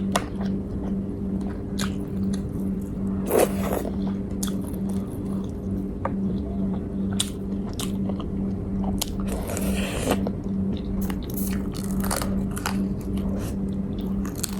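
Close-up eating sounds: biting and chewing a grilled chicken meal, with scattered crunches and small scrapes, over a steady low hum.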